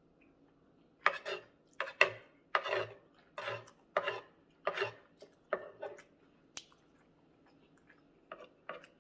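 Eating noises close to the microphone: a run of about nine short, sharp strokes, roughly one every 0.7 s, then a pause and a few more near the end.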